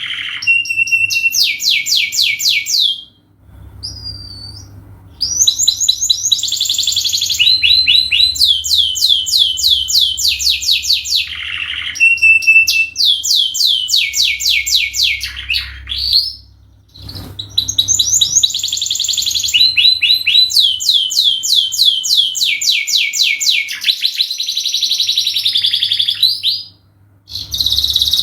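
Domestic canary singing long, continuous song: fast rolling trills of rapidly repeated high notes, phrase after phrase, broken by brief pauses about three seconds in, around seventeen seconds and near the end.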